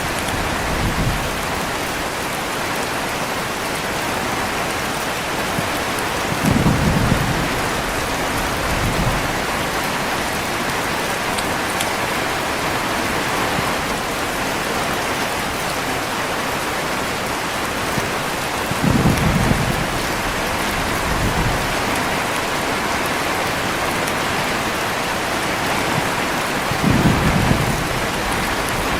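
Heavy rain falling steadily, with low rolls of thunder. Three short rumbles come through, each about a second long and each followed by a fainter one about two seconds later.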